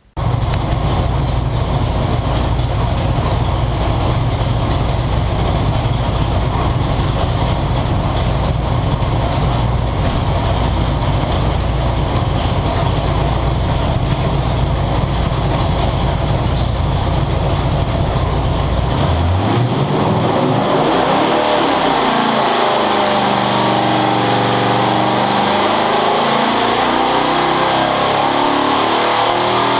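Ford 460 big-block V8 running on an engine dyno. It runs steadily and loud at first, then about two-thirds of the way in the pitch climbs as it is pulled up through the rev range under load in a dyno pull.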